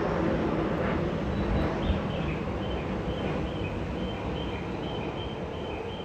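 Saphir Odoriko, a JR East E261 series electric express train, pulling out of the station, its rumble slowly fading as it moves away. Short high chirps repeat over it in the second half.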